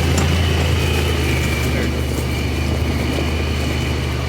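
Buggy running steadily along with an even, low engine drone and a thin high whine over it.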